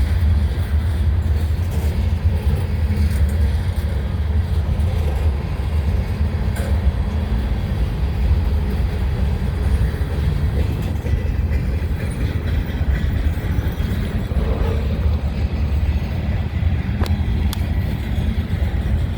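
Freight train cars rolling past, a steady low rumble with no horn.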